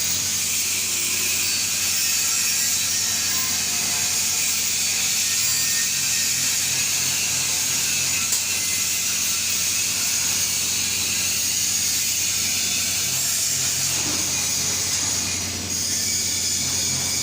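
TIG (gas tungsten arc) welding arc running, a steady hiss with a low hum underneath.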